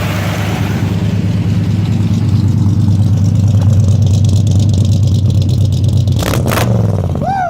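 A 1982 Chevy pickup's Corvette small-block V8 running loud and steady at a warm-up idle, its exhaust out through straight pipes and cherry bomb mufflers. About six seconds in there are two brief clacks, and right at the end a short falling squeal.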